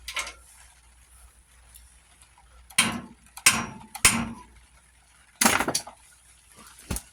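About six sharp clanks and knocks of metal tools and parts being handled while an old tractor is taken apart, with short pauses between them.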